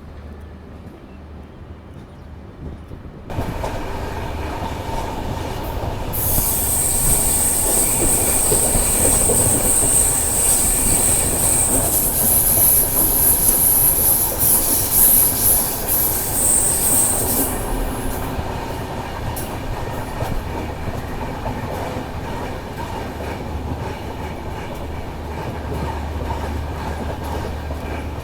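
Passenger train coaches running on rails with a steady rumble that grows louder about three seconds in. A high-pitched wheel squeal sets in about six seconds in and lasts until about seventeen seconds.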